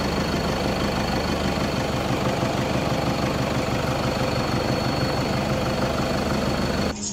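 A vehicle engine idling with a steady low rumble and a thin, high, constant whine above it.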